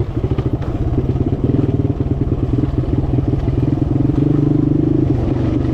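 Small off-road vehicle engine running steadily under way, its pitch rising a little about four seconds in and then holding.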